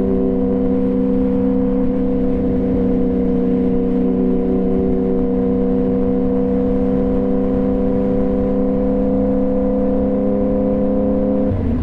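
2015 Yamaha FZ-09's inline-three engine running at steady throttle as the motorcycle cruises, its tone holding one pitch over a low rumble, then changing shortly before the end as the revs drop.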